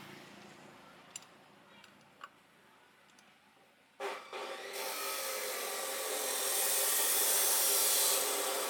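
Faint scraping with two light clicks, then about four seconds in a power tool starts and works against a surface with a harsh, rasping noise that grows louder.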